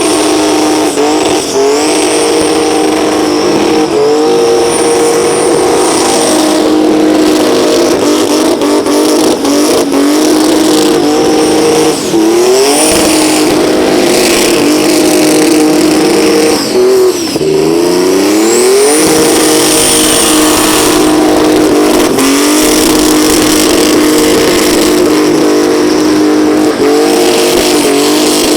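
Burnout car's engine held at high revs while the rear tyres spin and squeal. Twice, around twelve and seventeen seconds in, the revs drop and then climb back up.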